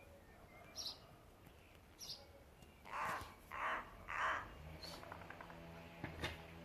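A crow cawing three times in quick succession, harsh calls about two-thirds of a second apart, after two brief high chirps.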